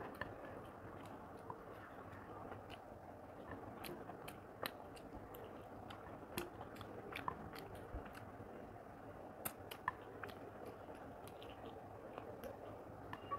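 Faint, close-miked chewing and wet mouth sounds of a person eating chicken curry and rice by hand, with irregular short clicks.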